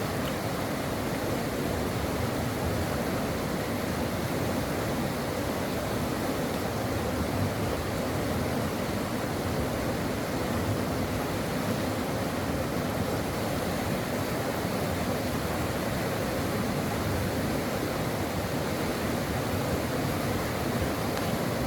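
Stream water flowing: a steady, even rush of water that doesn't change.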